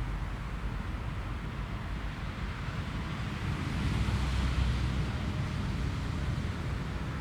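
Jet airliner engines rumbling with a rushing hiss that swells about four seconds in and then eases.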